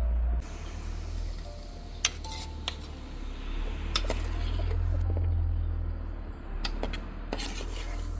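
Dishes and kitchen utensils being handled, with about five sharp clinks and knocks spread over a few seconds above a low steady rumble.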